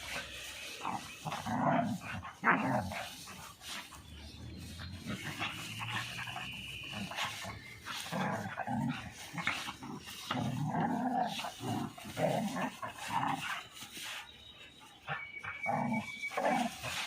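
Dogs playing, growling and giving short vocal bursts at an irregular pace.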